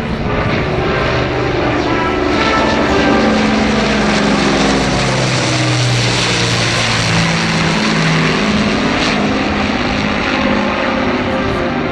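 Avro Lancaster bomber's four Merlin piston engines and propellers during a flypast, a dense propeller-engine noise that grows fuller in the middle of the pass and eases near the end.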